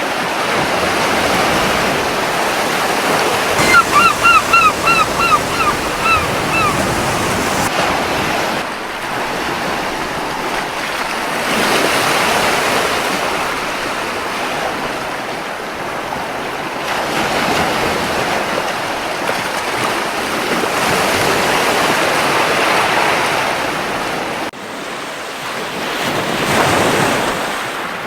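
Surf washing onto a beach in slow swells that rise and fall. A seagull gives a quick series of about eight short calls a few seconds in.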